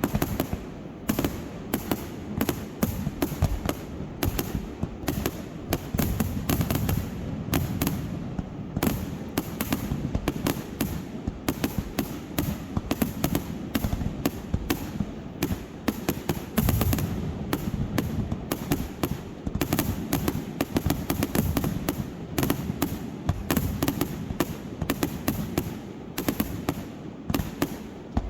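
Fireworks going off in a continuous barrage: many sharp bangs and crackles a second, overlapping, over a low rumble of distant booms.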